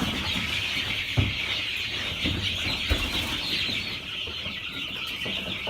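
A flock of three-week-old Production Red chicks peeping all at once in a dense, steady chorus. Two low thumps come through, about a second in and about three seconds in.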